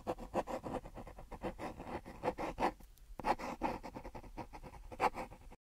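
Irregular scratching with many light clicks, which cut off suddenly near the end.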